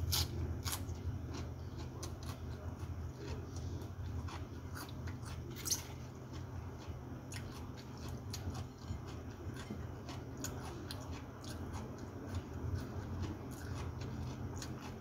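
Close-up eating sounds of a person chewing a mouthful of food, with many small wet mouth clicks and smacks throughout. A steady low hum runs underneath.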